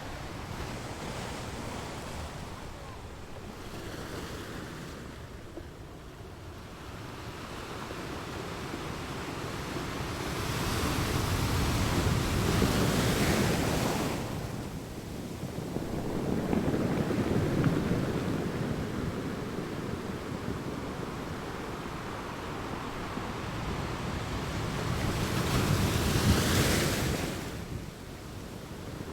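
Sea waves breaking on a beach. The wash rises and falls in three swells, the loudest about a third of the way in and near the end, each dying back to a softer hiss between.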